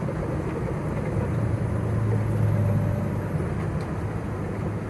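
Semi truck's engine and road noise droning steadily in the cab, with a low hum that swells in the middle.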